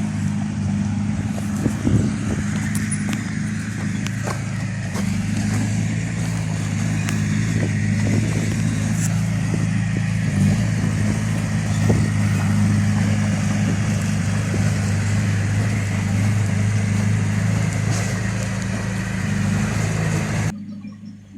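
Heavy-machine diesel engine running steadily, with scattered clicks and knocks over it; the sound cuts off suddenly near the end.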